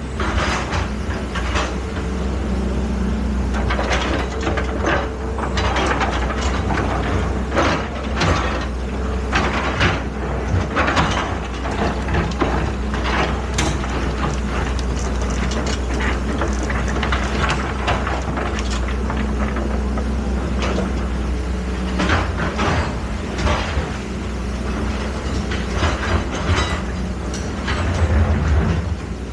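Excavator's diesel engine running steadily, with many short knocks and scrapes from the machine working.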